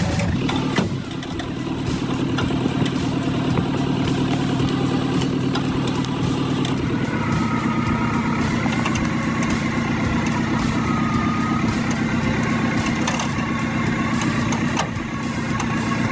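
Toyota Hilux pickup's engine running steadily under load while its winch pulls on a tree stump, with a higher whine joining about seven seconds in and scattered cracks.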